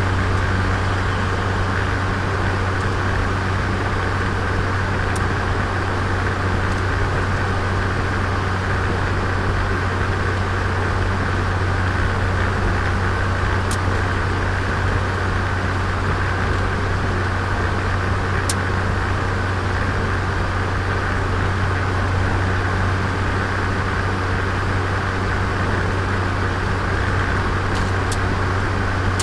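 Turbocharged Nissan Micra engine running at a steady, unchanging speed, recorded onboard, with a constant low hum and road noise. A few brief faint ticks stand out.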